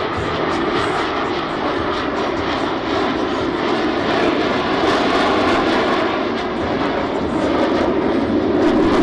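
Jet noise from Blue Angels F/A-18 Super Hornets flying a slow pass: a steady rushing engine sound that grows louder from about halfway through.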